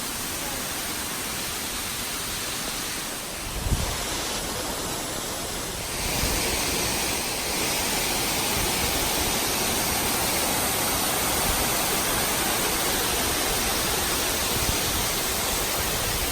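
Waterfall's steady rush of falling water, with a brief low thump on the microphone just under four seconds in. The rush grows louder at about six seconds and then holds steady.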